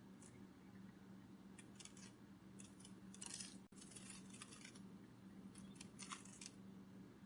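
Faint, short clusters of high rustling flutter, a butterfly wing-flutter sound effect, over a steady low hum. The bursts come in groups of a few, about every half second to a second.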